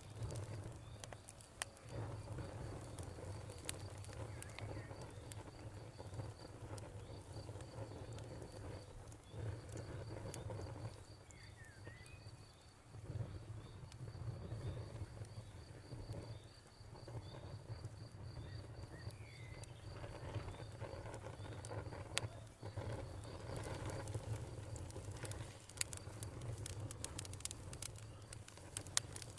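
Campfire crackling with scattered sharp pops over a low steady rush, while a cricket chirps in a fast, even pulsing trill.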